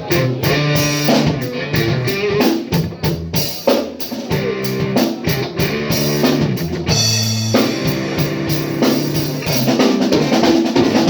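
Live band playing an instrumental passage: a drum kit keeps a steady beat with bass drum, snare and rimshots over a bass line and other pitched instruments.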